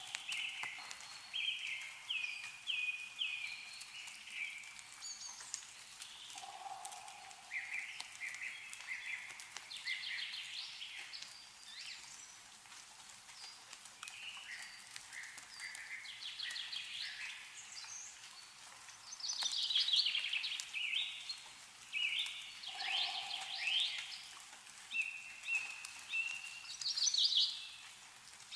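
Songbirds singing and chirping back and forth in repeated short trills, loudest about two-thirds of the way in, over meltwater dripping from snow-laden trees in scattered light ticks.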